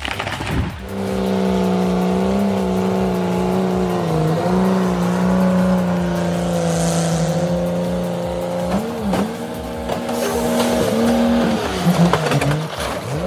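Chainsaw engine running at high revs, holding a steady high-pitched drone, dipping in pitch briefly a few times as it takes load and picking up again.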